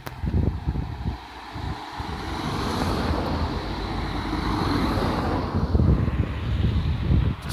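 BMW E36 320i straight-six running through a loud aftermarket exhaust, its sound building over a few seconds and then easing, as from a car driving past.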